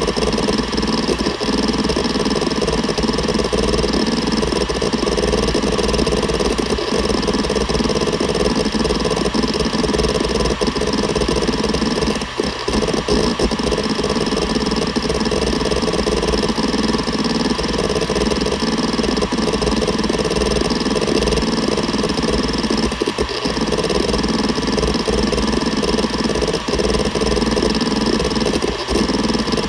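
Seagate Barracuda ES.2 ST31000340NS 7200 rpm 3.5-inch hard drive running: a steady hum and whine from the spinning platters, with a few sharper head-seek ticks scattered through.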